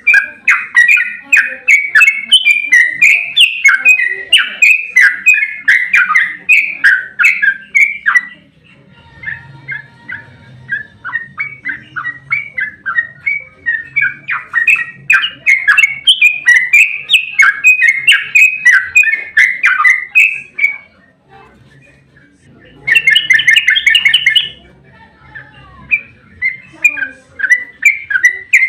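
Yellow-vented bulbul song: long, rapid runs of bubbly chattering notes, going briefly quiet about three-quarters of the way through, then a short dense burst and more chatter.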